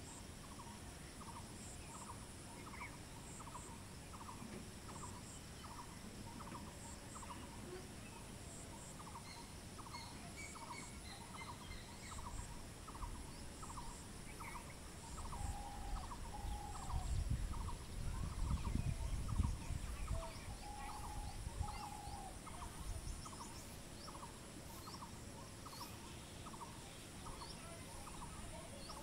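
A bird repeats a short call note over and over, about two a second, with brief pauses. Other scattered bird chirps come in, and a low rumble swells up around the middle.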